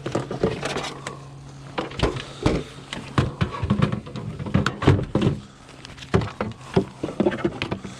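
Scrap being handled and moved about: a string of irregular knocks and clunks, some close together, over a steady low hum.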